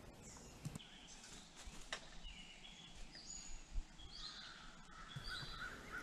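Faint backyard birdsong: short, high whistled notes from small birds, with a quick run of lower notes near the end.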